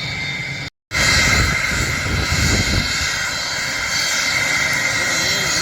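Aircraft engine running steadily, a low rumble under a high whine with a few steady tones, cut off briefly by an audio break just under a second in.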